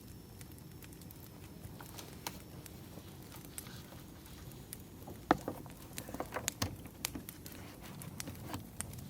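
Wood fire crackling: scattered pops and snaps over a low steady rumble, with a run of louder pops about five to seven seconds in.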